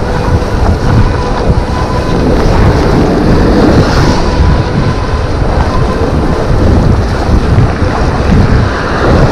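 Wind buffeting the microphone while riding an electric bike: loud, steady rumbling noise.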